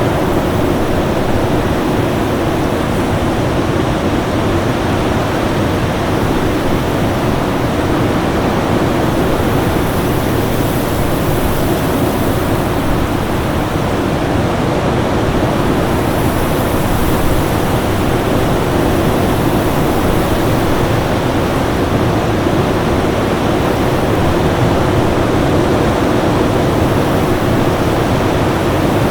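Winter storm ambience: a steady, dense rushing of wind noise, with a faint steady tone held underneath and slow swells in the high hiss.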